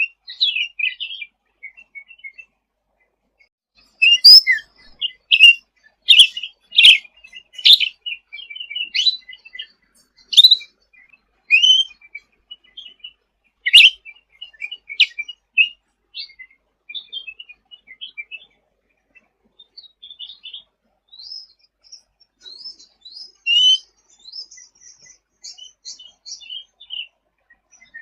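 Cucak ranting birdsong: quick series of short chirps and trills, loud and busy through the first half, then a short lull and softer twittering.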